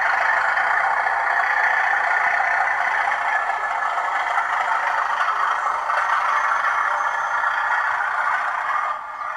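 OO gauge Hornby model train running past on the track: a steady whirring and rattling of motor and wheels on rail, easing off slightly near the end.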